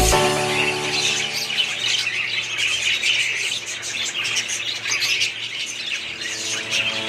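A flock of budgerigars chattering at once, many overlapping high calls in a dense, steady twitter.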